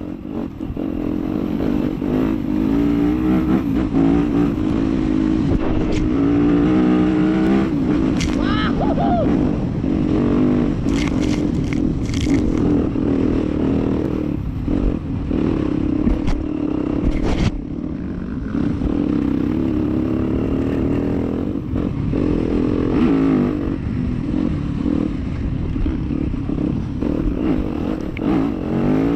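Dirt bike engines running and revving, their pitch rising and falling, with a few short clattering knocks.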